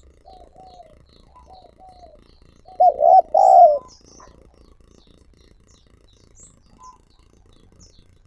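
Spotted dove cooing: a run of soft, quick repeated coos, then a loud burst of two or three coos about three seconds in. Small birds chirp faintly in the background.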